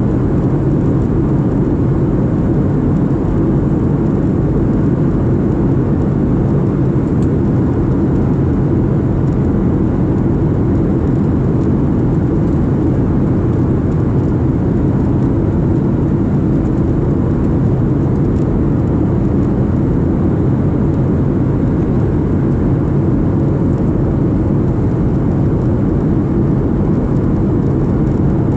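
Steady, even rumble of a Boeing 737-700 airliner in flight, its CFM56-7B engines and airflow running at a constant setting, with no change in pitch or level.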